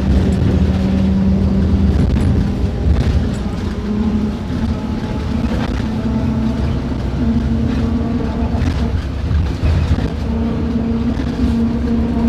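Mercedes-Benz OF-1721 BlueTec 5 bus's diesel engine running, its pitch rising and falling a few times as the engine speed changes, with scattered rattles.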